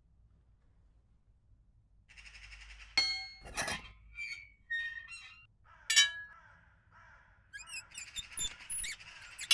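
Sound-effect clangs, two sharp metallic ringing hits about three and six seconds in, with short squeaky chirps between them and a busier run of chirps and rattles near the end.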